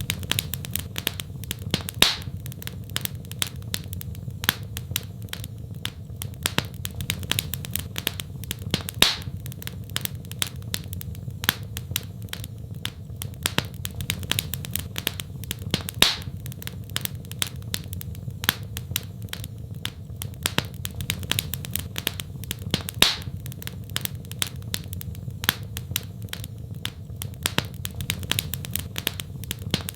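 Wood fire crackling: a dense run of small crackles over a steady low rumble, with a louder pop about every seven seconds.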